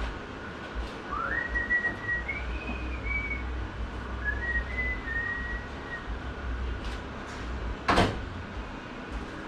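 A person whistling two short phrases of a few notes each, then a single sharp metallic clink of parts being handled about eight seconds in.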